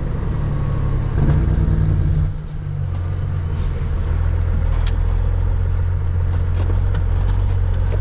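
Cat 3406E inline-six diesel of a Freightliner FLD120 running, a steady low drone heard from inside the cab. The drone drops a step about two seconds in as the engine eases off, and a single sharp click comes near the middle.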